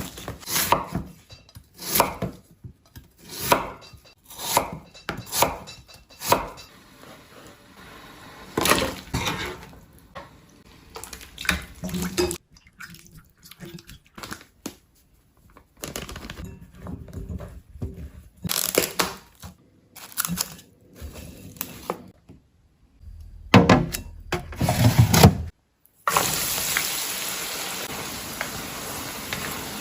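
Kitchen utensils, dishes and pans knocking and clinking in irregular separate strokes during home cooking. About 26 seconds in, a steady sizzle of food frying in a pan starts.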